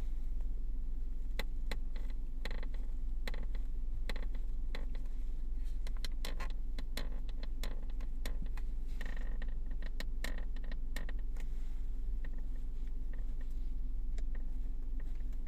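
Irregular short creaks and clicks from the dashboard of a second-generation Kia Soul, thick in the first two thirds and then thinning out, over a steady low hum. The owner puts this cricket-like squeak down, most likely, to a missing rubber pad in the instrument-panel trim.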